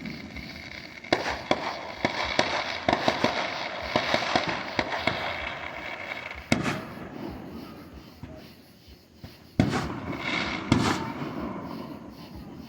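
Fireworks going off: a quick run of crackling pops, then single louder bangs about a second apart, each trailing off into crackle.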